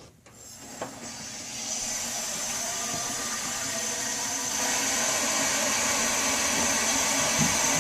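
Water rushing through the supply valve and pipe into an emptied water heater tank as it is filled. It is a steady hiss that swells up over the first couple of seconds and grows louder about halfway through.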